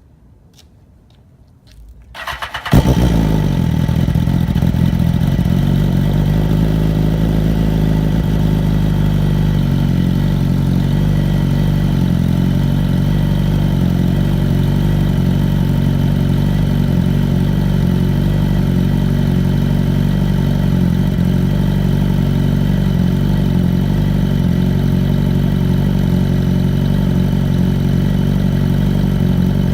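Motorcycle engine cold-started: a brief crank about two seconds in, it catches with a loud burst, then settles into a steady fast idle.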